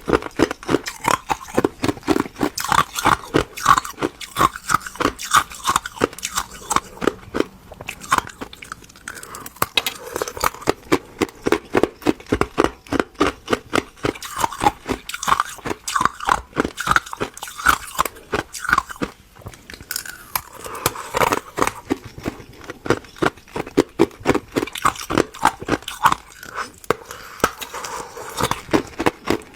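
Ice being bitten and chewed close to the microphone: a steady run of crisp crunches, about three a second, with a couple of brief pauses.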